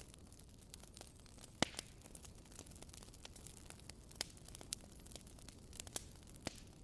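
Burning firewood crackling faintly: scattered sharp pops and snaps over a low steady hiss, the loudest pop about a second and a half in.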